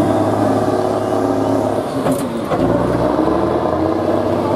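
Heavy truck engine running steadily, with a knock about two seconds in and a change in its low note shortly after.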